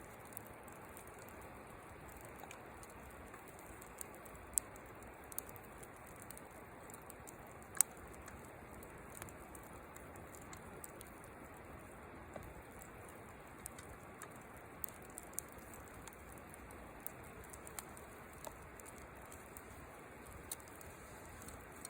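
Wood fire burning in a fire pit: a steady soft hiss with scattered sharp pops and crackles at irregular moments, the loudest about eight seconds in.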